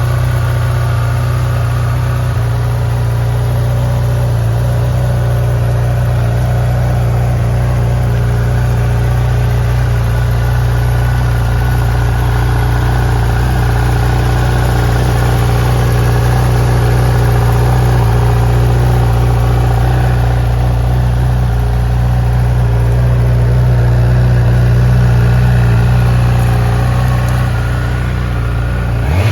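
Honda CB1000R's inline-four engine idling steadily.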